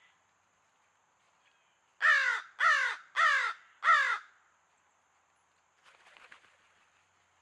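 Crow cawing four times in quick succession, harsh calls each falling slightly in pitch, about two seconds in.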